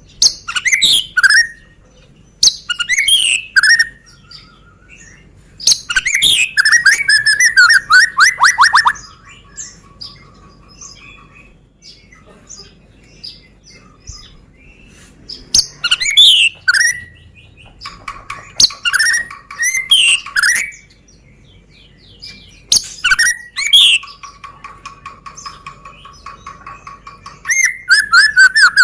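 Medan-type white-rumped shama singing: loud phrases of fast sweeping whistles and trills, separated by pauses of a few seconds, with softer rapid rattling notes between some phrases.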